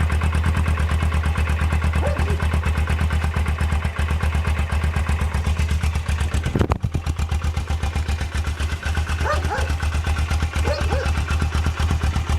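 Suzuki GS500E's air-cooled parallel-twin engine idling steadily on its original exhaust, with an even pulse and a brief sharp break in the sound a little past halfway.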